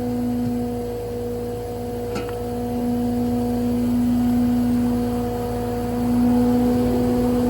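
The Kenworth T370's PACCAR PX-8 diesel engine idling with a steady hum, with a single click about two seconds in.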